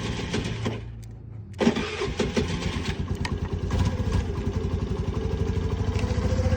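Honda Navi's small carbureted single-cylinder four-stroke engine on a near-freezing cold start with full choke. The electric starter cranks, stops briefly, and the engine catches about one and a half seconds in. It then runs a steady, rapid fast idle that rises a little near the end.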